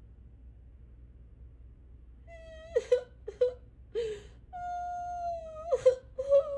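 Parrot making a whimpering, crying-like wail: after about two seconds of quiet, a few short whimpers, then one long, steady whining note and more short cries near the end.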